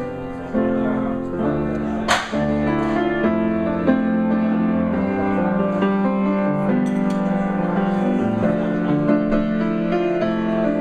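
Grand piano played live, slow held chords changing about once a second. A brief sharp noise cuts through about two seconds in.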